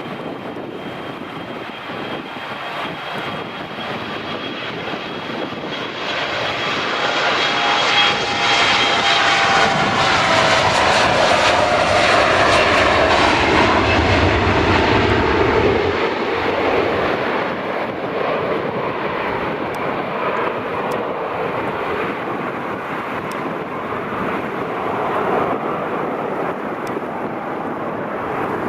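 Airliner's engines passing close by: the noise swells to its loudest about halfway through, with a whine that falls in pitch as the aircraft goes past, then eases back to a steady rumble.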